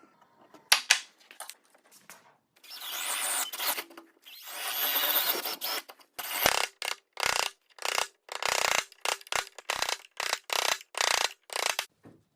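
Wood being worked by hand with a tool: two longer scraping strokes, then a run of short, quick strokes about two a second.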